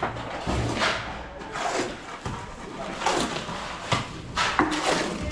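Irregular scraping and knocking of hand tools working wet mortar, with faint voices in the background.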